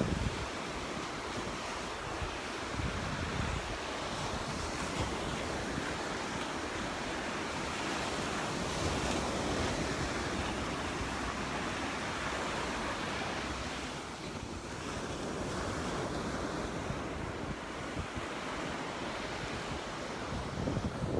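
Surf washing onto the beach, a steady rushing noise, with wind buffeting the microphone in low rumbles.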